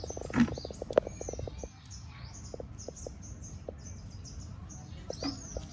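Small birds chirping, short high notes repeating over and over, with a fast run of clicks through the first second and a half and a few single clicks after.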